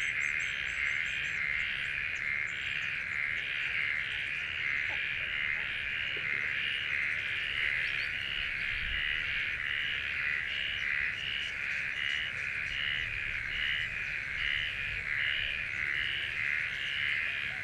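Dense, steady chorus of calling animals, a pulsing buzz at about two beats a second, with a few faint high bird chirps in the first few seconds.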